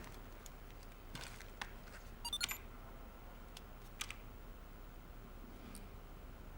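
A few light, scattered clicks and taps, with a quick run of small clicks about two seconds in and a single sharper click about four seconds in.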